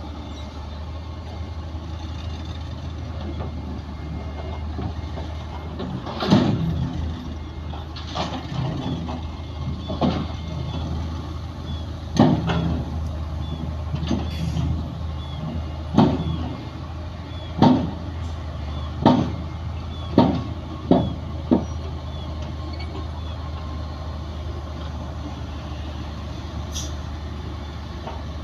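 Diesel engine of heavy earthmoving machinery running steadily, with about ten loud sharp bangs, coming closer together toward the end of the run of bangs.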